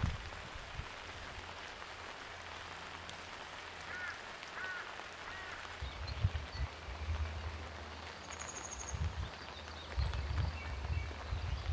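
Steady rain hiss, with a bird giving three short call notes about four seconds in and a brief high trill a few seconds later. Low thumps and rumble come and go in the second half.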